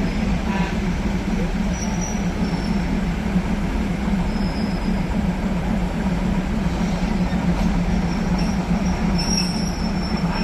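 Diesel railcar running through a yard move: a steady low engine drone and rumble, with faint, brief high-pitched wheel squeals a few times.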